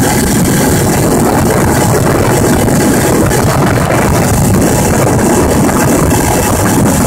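Small Piaggio two-stroke moped engine with a 38.2 mm cylinder, 12/12 carburettor and SITO exhaust, running loud and steady at an even speed.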